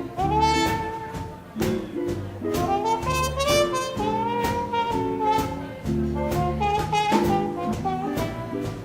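Live swing band playing an instrumental jazz passage, with saxophone and brass lines over a drum kit.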